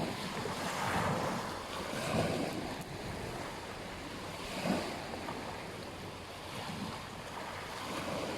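Ocean surf washing onto a beach in repeated swells, with wind buffeting the microphone.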